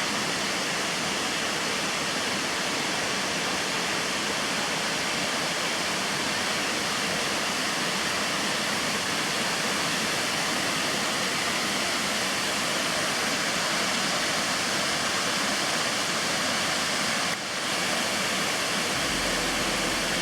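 Waterfall rushing steadily: a continuous, even noise of falling water, with a brief dip about three-quarters of the way through.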